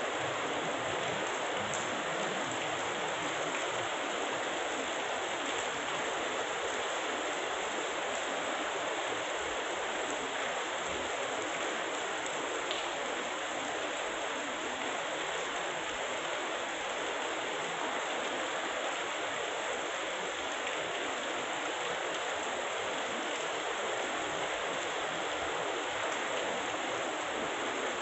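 Heavy rain falling steadily, an even wash of noise with no thunder.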